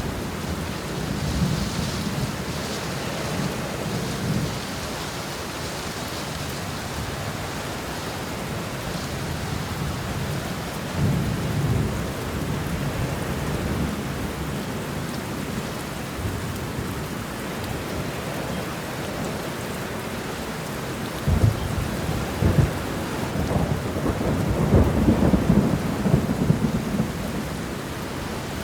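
Thunderstorm: steady heavy rain with low rolling thunder, a few rumbles early on and a louder, longer peal of thunder about three quarters of the way through.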